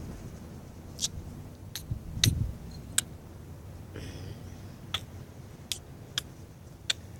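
Scattered, irregular sharp clicks and taps, about a dozen, with a soft low thump a little over two seconds in.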